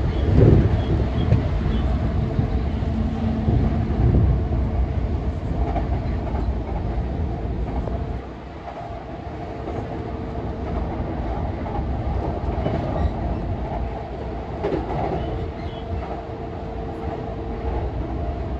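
Running sound inside a JR East E233-0 series electric train in motion: steady rumble of wheels on rail under a faint, steady motor hum. A few heavier thumps come in the first four seconds, and the sound drops a step about eight seconds in.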